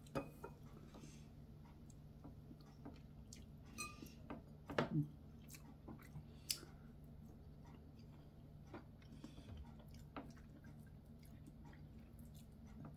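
Faint close-miked eating sounds: soft chewing with scattered small clicks of wooden chopsticks against bowls, and one louder knock about five seconds in. A faint steady low hum runs underneath.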